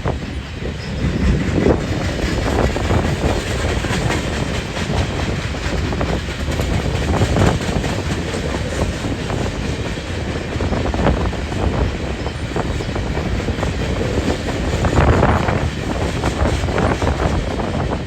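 Canadian Pacific train cars rolling past, a steady rumble with the wheels clacking over rail joints at irregular intervals.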